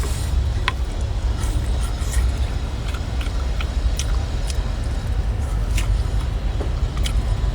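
Oyster shells clicking and scraping now and then as they are pried open with a small shovel, over a steady low rumble.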